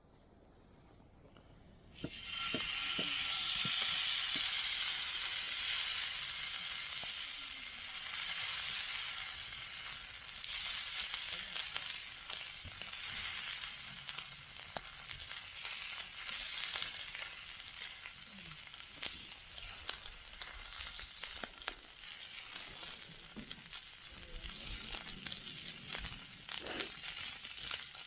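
Steak sizzling over a campfire, starting suddenly about two seconds in as the meat goes onto the heat: a dense hiss full of small pops and spits, loudest at first and then settling.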